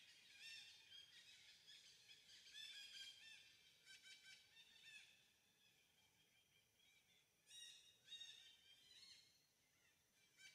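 Faint chirping of several small birds: clusters of short, high calls, strongest about half a second in, around 2.5 to 3 s, around 4 to 5 s, and again near 7.5 to 8 s.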